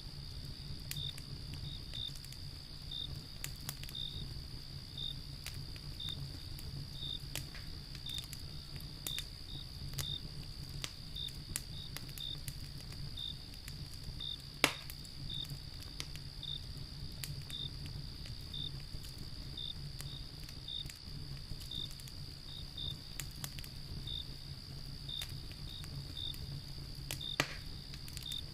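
Wood fire crackling with scattered small clicks and two sharp pops, one about halfway through and one near the end, over a steady trill of crickets chirping.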